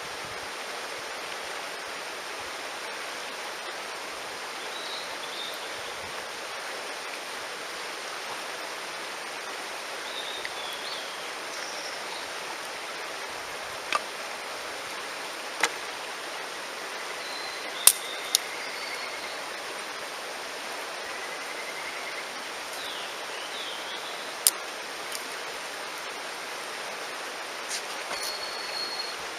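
Mountain stream rushing steadily, with a wood fire giving a few sharp pops and small birds chirping now and then. Two faint trills in the middle come from a kajika frog.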